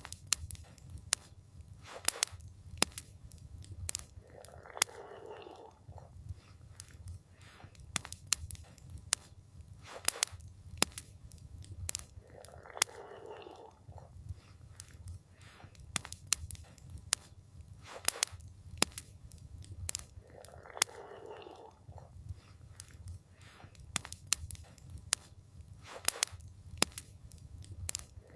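Campfire crackling with frequent sharp pops over a low, steady rumble. A soft sound of about a second repeats roughly every eight seconds.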